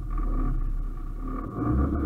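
Car engine idling, then growing louder and deeper about one and a half seconds in as it pulls off.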